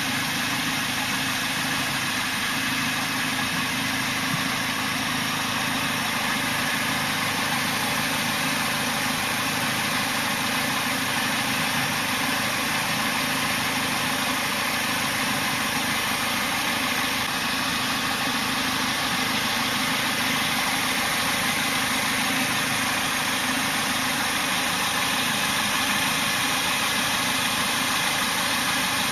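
A car engine idling steadily, an even hum and hiss that does not change.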